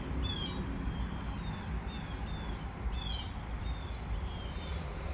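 Songbird singing: short falling whistled notes repeated every half second to second, over a low steady rumble of outdoor background.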